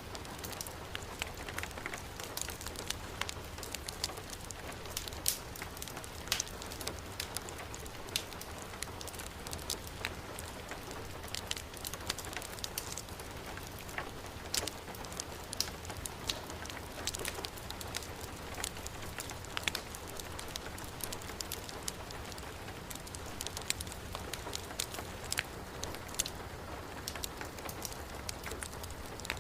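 Heavy rain falling steadily, with frequent sharp irregular crackles and pops from a fire burning in a fireplace.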